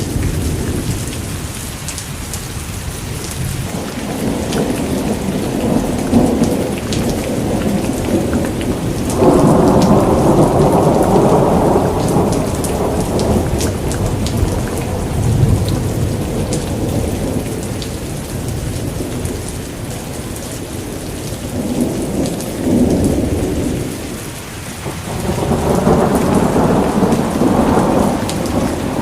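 Steady heavy rain with thunder rolling in long, low rumbles that swell and fade, loudest about a third of the way in and again near the end.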